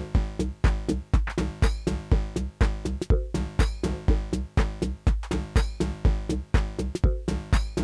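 Techno played live on analogue hardware drum machines and synthesizers: a steady kick about twice a second, with percussion between the beats over a repeating synth bassline.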